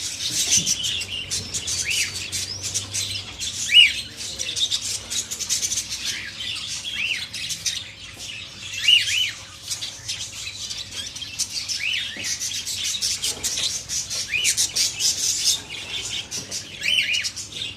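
Lovebirds chirping and chattering: a constant high twittering, with short sharp calls that rise and fall every second or two.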